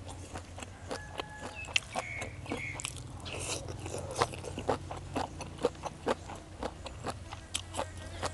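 Close-miked crunchy chewing of beef tripe salad: many sharp, irregular crisp crunches as the rubbery tripe is bitten and chewed.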